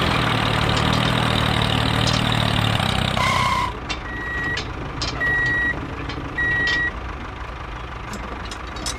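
Truck engine running steadily, then its reversing alarm sounding three even beeps about a second apart while the engine keeps running.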